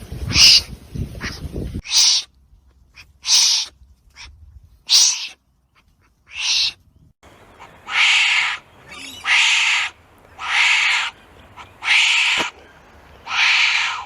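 Wombat giving a series of harsh, breathy calls: short ones spaced irregularly at first, then longer calls of about a second each, repeated evenly about every second and a half. A low rumbling noise runs under the first two seconds.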